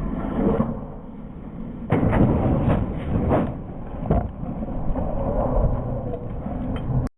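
Low rumbling vehicle noise with a run of heavy thumps about two to three and a half seconds in, and another a little after four seconds.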